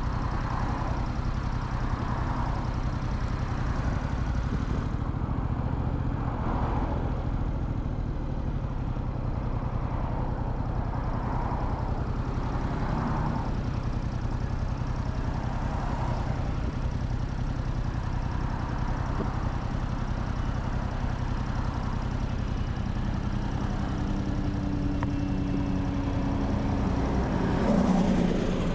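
Motorcycle engine running steadily with a constant low rumble, heard from the rider's seat. In the last few seconds a steadier engine tone comes in and rises to a brief louder swell near the end.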